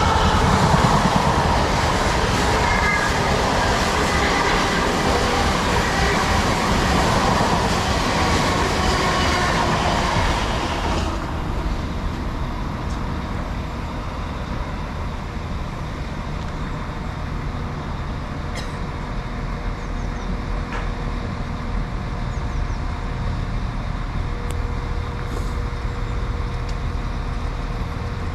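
A train passing through, a loud rushing rumble of wheels on rail. About eleven seconds in it drops away sharply, leaving a quieter, steady low hum.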